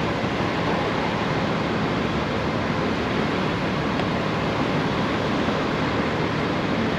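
Steady rush of wind and road noise from a Honda Gold Wing motorcycle under way, with no distinct engine note standing out.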